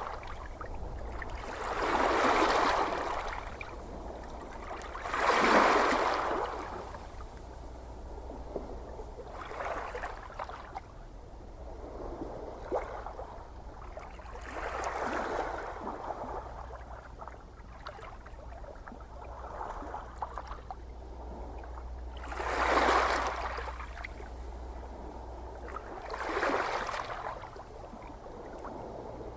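Gentle ocean waves breaking and washing in, the surf swelling and fading every few seconds, some surges stronger than others, over a steady low rumble.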